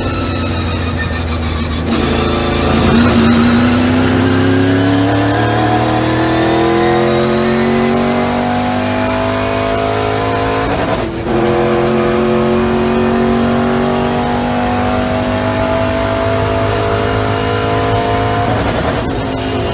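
Race car engine accelerating through the gears. It holds a steady note for about two seconds, then climbs in pitch, breaks off for an upshift about halfway, climbs again, and shifts once more near the end.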